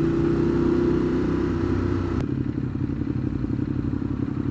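Ducati Monster 821's L-twin engine running as the bike slows, its pitch sinking slightly. A sharp click comes a little over two seconds in, after which the engine settles into a lower, pulsing idle.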